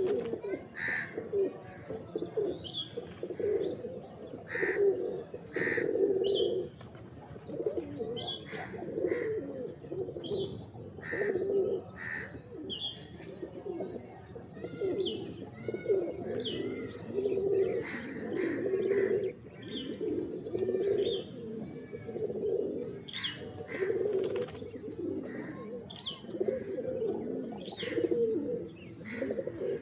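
A flock of pigeons cooing continuously, many overlapping low, rolling coos, with short high chirps scattered through.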